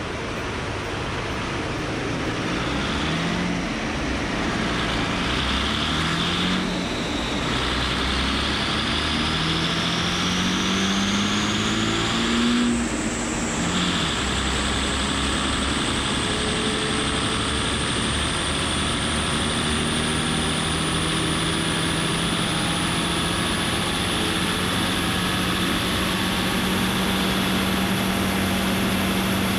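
Audi A4's compound-turbocharged 2.5 TDI V6 diesel running on a chassis dyno, over a loud steady rushing noise. Its note climbs in steps through the gears over the first dozen seconds, with a whine rising alongside. It then holds at a steady speed.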